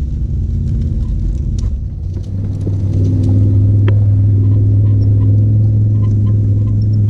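A vehicle engine running with a deep, steady drone, picking up about two and a half seconds in and holding louder and steady, as if under load, with a few faint sharp ticks over it.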